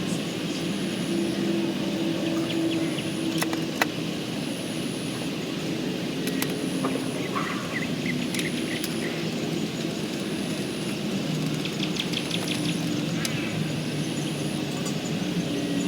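A steady mechanical hum with a few held low tones, broken by scattered sharp clicks, with a faint high chirp that comes and goes about once a second.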